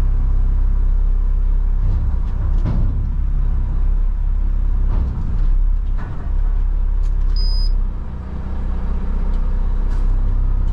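Front-load garbage truck's diesel engine running steadily, heard from inside the cab, with a few clunks and a brief high-pitched beep about seven seconds in.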